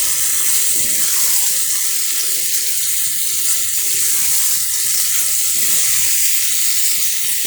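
Yogurt-marinated chicken sizzling in hot oil in a pan, a steady hiss with no break, as the spiced chicken is being dry-fried down (kosha).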